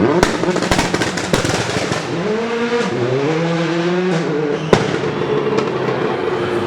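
Rally car engine blipped on the throttle, with a rapid volley of sharp pops and bangs from the exhaust in the first second and a half, typical of an anti-lag system. It revs up again, one more loud bang comes near five seconds in, and then it settles back to a steady run.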